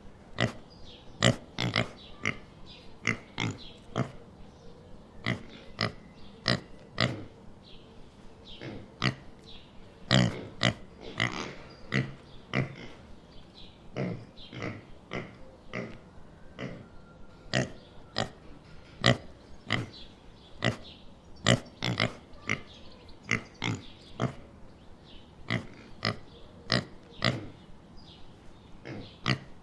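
Farm animals making many short calls in quick succession, one to two a second, some louder than others.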